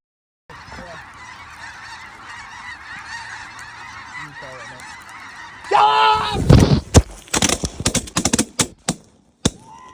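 A flock of Canada geese honking and clamoring, with loud close honks about six seconds in, followed by a rapid series of sharp shotgun shots.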